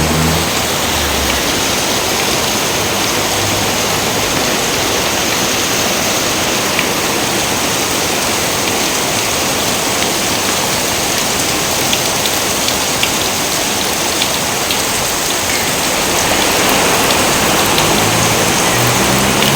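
Steady heavy rain: a dense, even hiss of falling water with scattered sharper drop ticks, growing slightly louder about three-quarters of the way through. Brief low sounds come near the start and again near the end.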